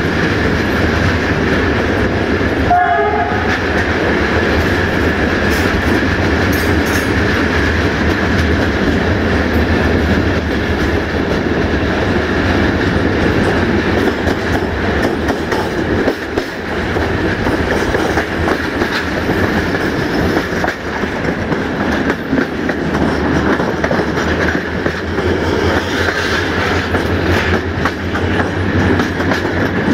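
Diesel-hauled passenger train running at speed, heard from a carriage window: wheels clattering over the rail joints over a steady engine drone and a held tone. A brief sound stands out about three seconds in.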